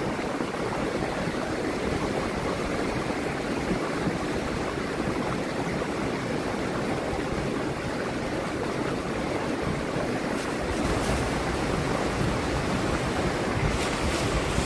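Fast river water rushing steadily, with two brief sharper hisses about ten and fourteen seconds in.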